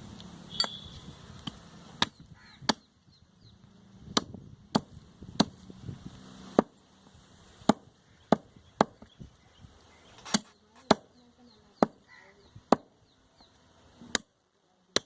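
A knife or cleaver chopping on a chopping board: sharp, separate strikes at an uneven pace of about one to two a second.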